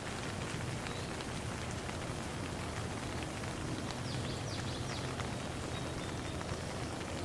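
Steady rain on a pond, a dense even patter of drops. A few brief high chirps come about four seconds in.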